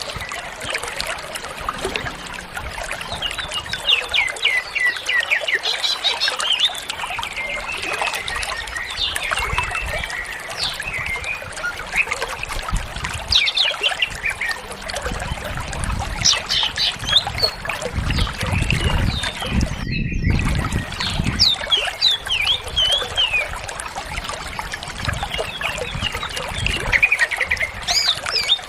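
Cucak ijo (green leafbird) singing continuously: rapid chirps, trills and quick sweeping whistles strung together as a varied, mimicking song. A low rumble comes in about halfway, and the song breaks off for a moment.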